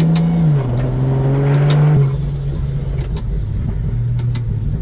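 Toyota 2JZ straight-six engine in a Honda Odyssey pulling under load; its pitch drops about half a second in as the 8-speed gearbox shifts up. At about two seconds it goes quieter as the throttle eases off, and it runs on steadily.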